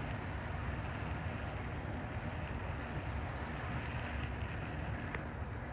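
Model train running on layout track: a steady low rumble of wheels and motors, with one light click near the end.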